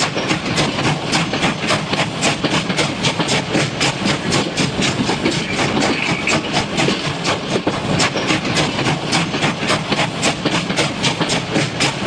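Train wheels clicking over rail joints in a steady clickety-clack rhythm, about four clicks a second, over a continuous rumble of running noise.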